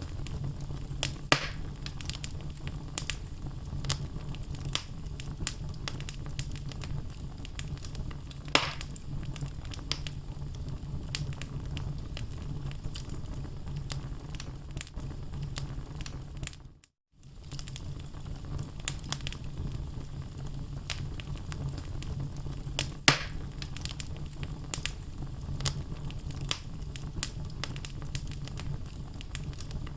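Wood fire burning in a fireplace: a steady low rumble of flames with scattered crackles from the burning logs and three louder sharp pops. The sound cuts out for a moment a little past the middle, then fades back in.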